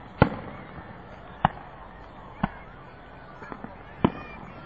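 Fireworks shells bursting: about six sharp bangs, roughly a second apart. The loudest comes near the start, and a softer quick pair falls past the middle.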